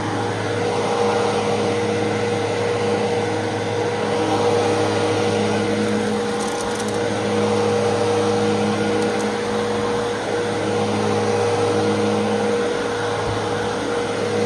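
Fantom Fury 10-amp upright vacuum cleaner running steadily with a constant motor whine, its loudness swelling and easing slightly as it is worked over the carpet.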